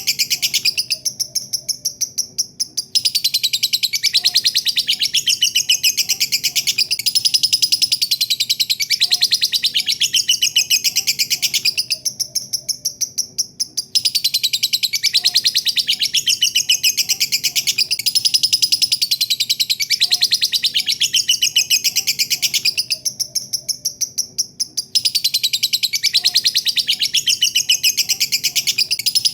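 Lovebird singing its long, rapid chattering 'ngekek' song, high-pitched notes fired in quick succession. The bouts last about nine seconds and break off briefly about a second in and again near the middle, with the pattern repeating evenly.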